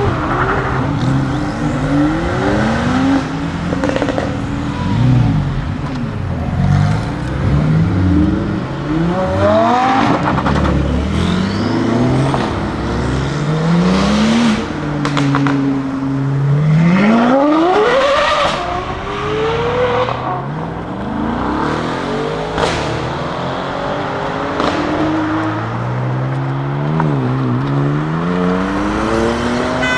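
Lamborghini Huracán STO's naturally aspirated V10 engine accelerating hard again and again, its note rising through the revs and dropping back at each gear change.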